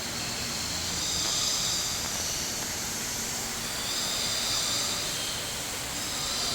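Steady rushing hiss of an indoor waterfall, with a high shimmer above it that swells and fades every second or two.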